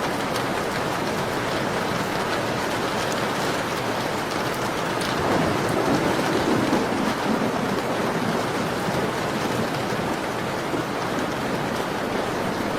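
Steady rain pattering on a window, a continuous even hiss, swelling louder with a low rumble for a couple of seconds near the middle.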